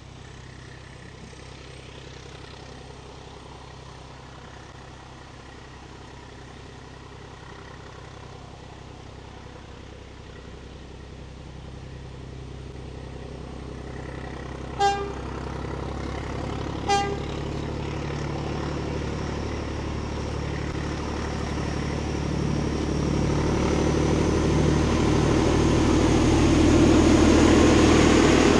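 Diesel shunting locomotive approaching with a train of coaches, its engine growing steadily louder as it nears. It gives two short horn toots about two seconds apart, around halfway through.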